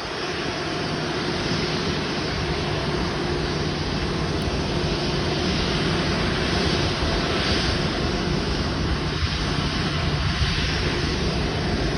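Airbus A330-900neo's Rolls-Royce Trent 7000 turbofan engines running steadily at low power as the airliner taxis in, a continuous rushing noise with a low steady hum under it.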